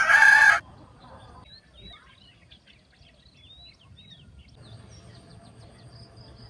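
Birds chirping, a quick run of short rising and falling calls in the middle, over a faint steady outdoor background. A brief loud noise opens the stretch.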